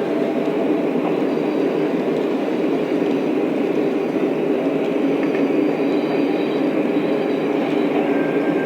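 Lionel O-scale model train running on its track: a steady, unbroken rumble.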